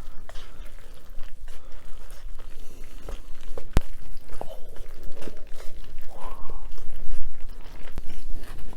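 Close-miked eating sounds: bites and chewing of food, with scattered clicks and one sharp click a little under four seconds in.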